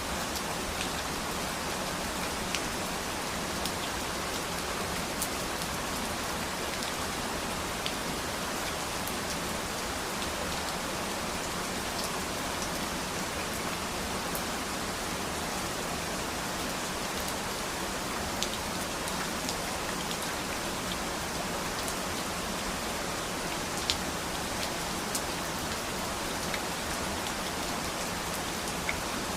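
Steady rain falling, with individual drops clicking sharply here and there, one louder drop about 24 seconds in.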